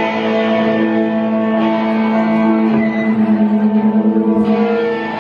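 Live band playing the instrumental opening of a rock song, led by guitar, with ringing sustained notes and some echo. Past the middle, a held low note wavers rapidly in volume for a couple of seconds.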